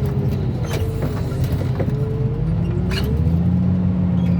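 Mobile car crusher's diesel engine and hydraulic pump running under load, with a thin whine that wavers up and down in pitch. About three seconds in, the engine note settles into a steadier, slightly higher drone, and scattered sharp clicks sound throughout.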